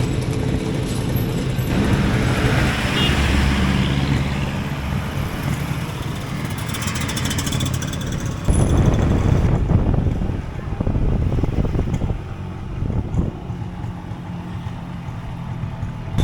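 Motorcycle engine running on the move, with a sudden louder low rumble about eight and a half seconds in that eases off again.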